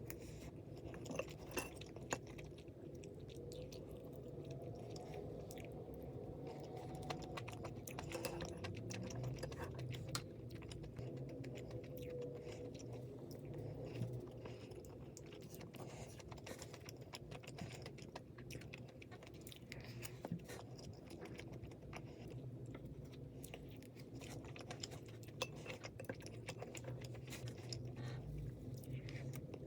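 Close-up eating sounds: a person chewing and biting food, with frequent small crunches and clicks throughout.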